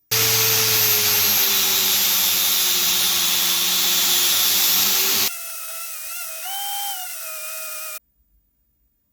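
An electric power tool running, loud with a grinding hiss, which cuts off abruptly about five seconds in. A quieter motor whine follows, rising briefly in pitch, and stops abruptly about three seconds later.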